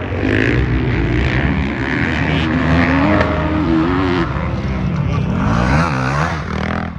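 Off-road racing engines of dirt bikes or ATVs revving up and down as they race on the motocross track, several engines overlapping, with the pitch rising and falling as the riders work the throttle.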